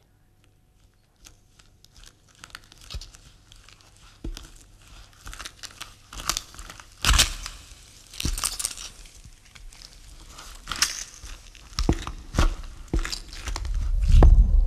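Irregular crackling and rustling sounds, sparse at first, then louder and denser. A low rumble swells near the end.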